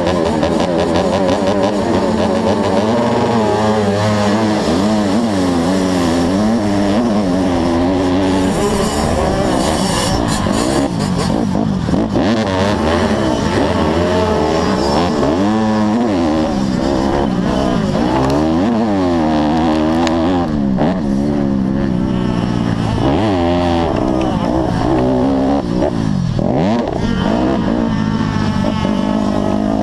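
Motocross bike engines revving up and down again and again through the gears at racing speed, with more than one engine pitch crossing at times.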